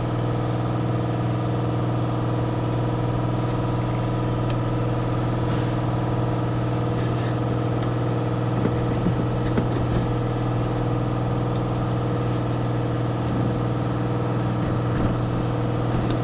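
Yamaha G29 golf cart's gas engine idling steadily, with a few light clicks and knocks of handling in the middle.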